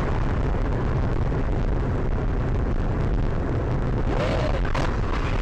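A car driving, heard through a dashcam microphone: steady loud engine rumble and road noise, with a short knock near the end.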